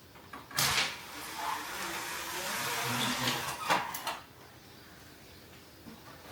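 A door being opened and shut: a sharp knock about half a second in, a few seconds of sliding, rushing noise, and a second sharp knock near four seconds.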